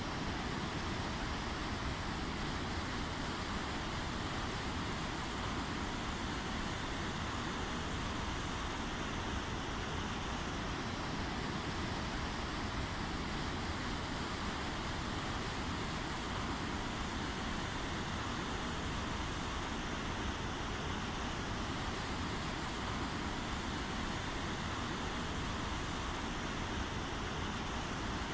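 Steady rainfall: an even hiss without single drops or gusts standing out.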